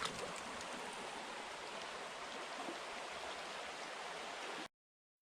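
Steady rush of river water flowing over a shallow bed, cutting off abruptly near the end.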